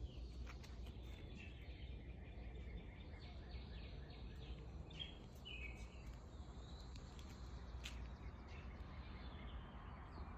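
Birds chirping in the morning, short high notes coming in quick runs, busiest around the middle, over a steady low background rumble.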